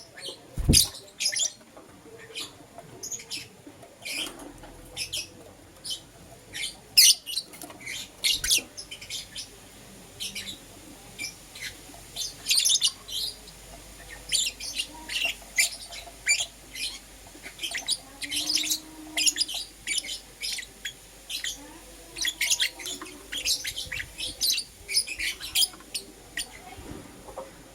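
Lovebirds chirping: a rapid, continuous string of short, sharp, high-pitched chirps and squawks. One knock sounds about a second in.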